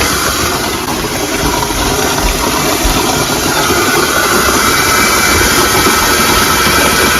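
Hot water rushing and hissing from a burst pipe under a sink, a loud, steady spray. A faint whistling tone joins it about halfway through.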